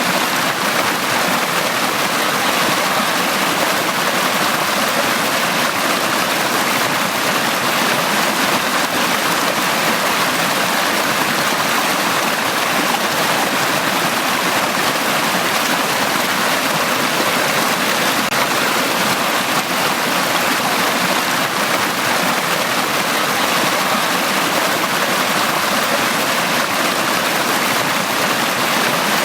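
Valley stream flowing steadily over rocks, an even, unbroken water rush with no changes.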